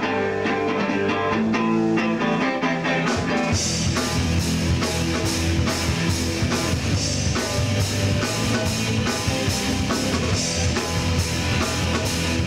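Live rock band starting a song: a guitar plays the intro alone, and drums and bass come in about three and a half seconds in, the full band then playing on with a steady beat.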